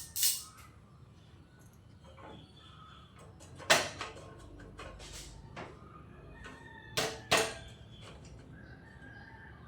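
Hand tools being handled on the motorcycle's fork yoke nuts: a few sharp clicks and knocks, the loudest about four seconds in and a pair close together about seven seconds in, with quieter taps and rustling between.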